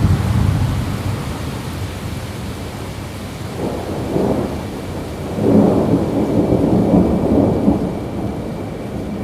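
Thunder rumbling over steady rain. A low rumble fades at the start, a short one comes about a third of the way in, and a longer rolling peal follows just past the middle.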